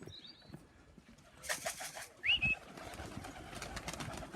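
Young racing pigeons moving about on the loft: a scatter of quick taps and wing flutters, with a short rising high chirp a little after two seconds in.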